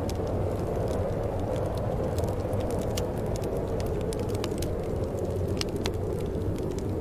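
Wood fire burning in a fireplace: a steady low rush of the flames with scattered sharp crackles and pops from the burning logs, a couple of louder pops near the end.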